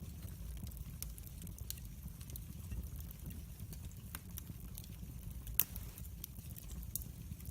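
Log fire burning in a fireplace: scattered sharp crackles and pops over a low, steady rumble, with one louder pop about five and a half seconds in.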